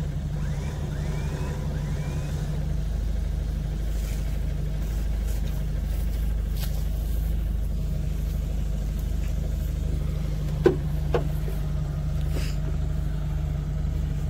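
Vehicle engines idling steadily with a low hum, with two short sharp knocks about eleven seconds in.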